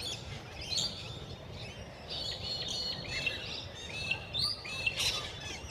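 A mixed group of birds calling together: many short chirps and whistles overlapping, some gliding up or down in pitch, over a steady background hum.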